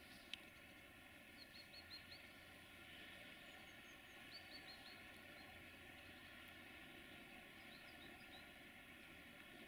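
Near silence with a faint steady background hiss, over which a small bird chirps three times in quick runs of four or five short high notes. A single sharp click comes just after the start.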